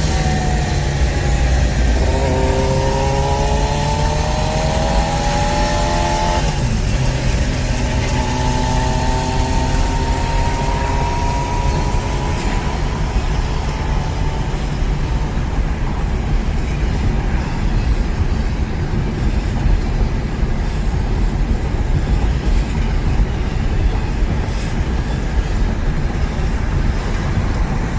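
Car engine accelerating, rising in pitch, with a gear change about seven seconds in, then rising again. After that it settles into steady low road rumble.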